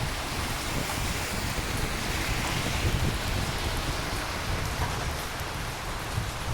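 Steady rain falling, with a continuous low rumble beneath it.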